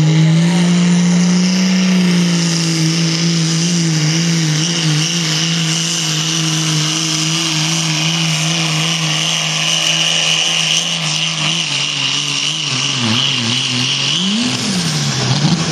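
Dodge pickup's 5.9 Cummins diesel engine pulling hard under load at high revs, its pitch wavering steadily with a high whine over it. Near the end the revs drop and swoop up and down as the pull ends.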